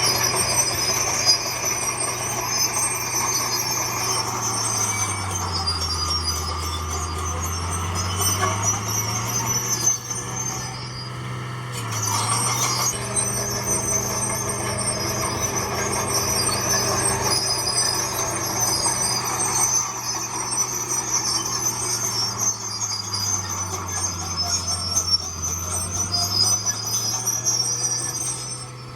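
Heavy diesel earthmoving machine running, its engine note dropping twice and climbing back as if lugging under load, with a steady high metallic squeal over it.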